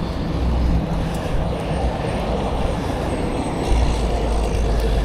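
Wind buffeting the microphone of a neck-mounted action camera on a moving bicycle, a steady rushing noise with a low rumble that grows stronger about three and a half seconds in.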